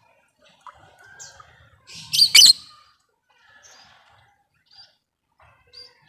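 Lovebird giving short shrill chirps, with one loud, harsh burst of screechy chatter about two seconds in.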